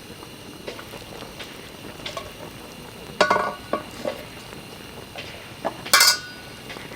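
Metal cookware and utensils clinking and clattering a few times, the loudest knocks about three seconds in and near the end, over a steady background hiss.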